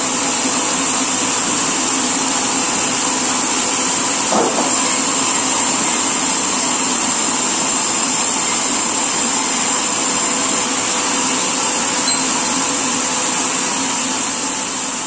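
Sawmill machinery running steadily, with a constant high whine over a continuous mechanical noise.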